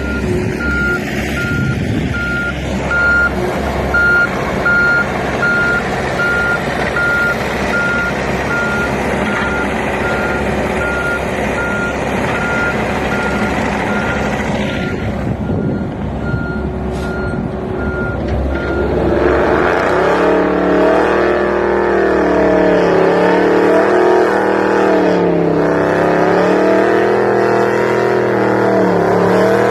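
Truck with an 8.1 Vortec V8 running, its reversing alarm beeping about once a second. After the beeping stops, about two-thirds of the way through, the engine pulls under load, its pitch rising and falling.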